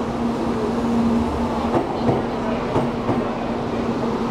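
Shinkansen bullet train moving along the platform: a steady electric hum with a string of wheel clicks.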